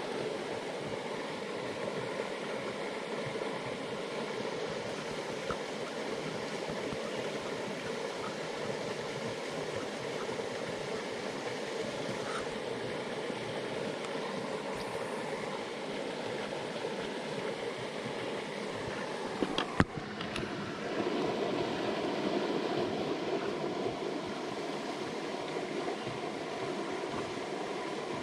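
Jungle headwater stream flowing, a steady rush of water. A single sharp click comes about twenty seconds in, after which the water sounds a little louder.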